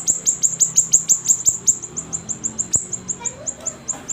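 Siri-siri songbird singing a fast, steady run of short, very high chirps, each slurring downward, about six a second.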